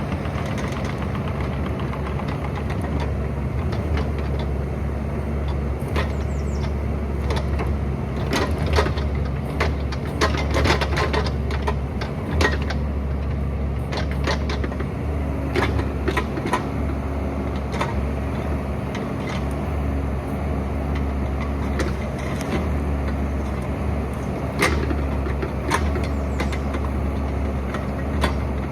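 Excavator diesel engine running steadily under work, with repeated sharp knocks and clanks from the bucket working rock, thickest from about a fifth to halfway through and again near the end.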